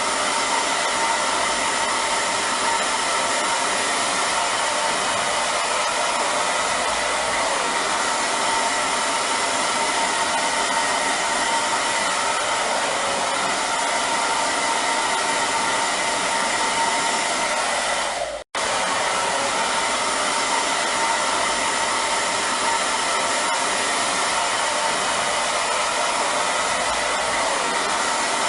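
Hair dryer running steadily: an even blowing rush with a faint steady whine in it. It cuts out for an instant about two-thirds of the way through, then carries on unchanged.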